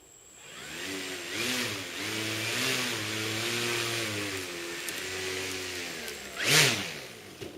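Turnigy 320kv electric outrunner motor spinning the propeller of a large-scale model plane: it winds up, its pitch shifts up and down with the throttle, swells sharply for a moment about six and a half seconds in, then winds down.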